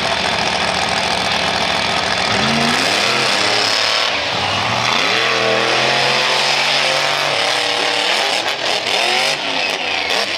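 Monster truck engines revving hard under full throttle, the pitch climbing twice in the first few seconds and holding high, then falling off and blipping up and down near the end.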